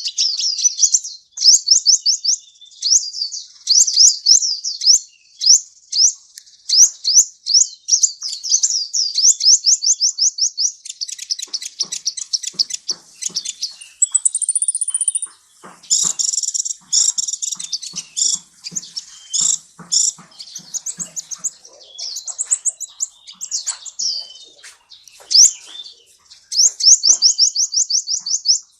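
A sunbird (kolibri) singing: long runs of very high, rapid chirping trills made of quick sweeping notes, with a brief higher whistle about halfway and sharper clipped notes after it.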